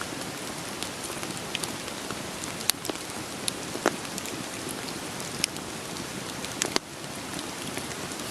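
Steady rain hiss with a wood fire crackling over it, about ten sharp pops scattered irregularly through the rain.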